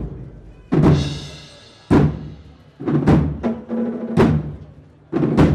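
Procession marching band playing a slow march: bass drum and cymbals struck together about once a second, each stroke ringing away, with held brass and wind notes between the strokes.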